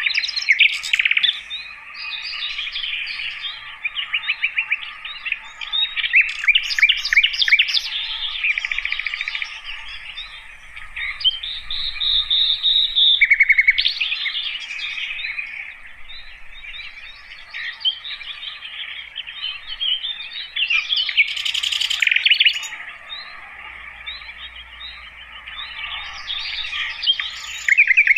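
Sikatan londo flycatcher singing a long, varied song of rapid trills, chirps and whistled notes, with louder trilled phrases around six to eight seconds in and again near twenty-two seconds, over a steady faint background hum.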